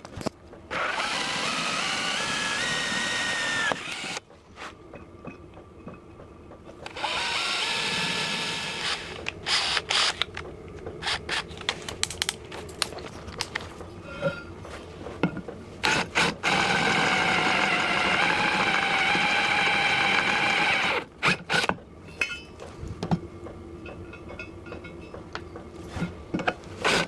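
Power drill drilling into aluminium extrusion, running in three bursts of a few seconds each. Short clicks and knocks of handling fill the pauses between the runs.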